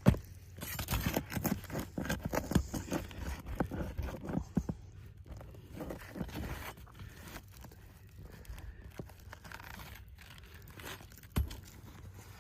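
Footsteps and scuffing on roof shingles: irregular scrapes and knocks, busiest in the first half, then sparser and quieter.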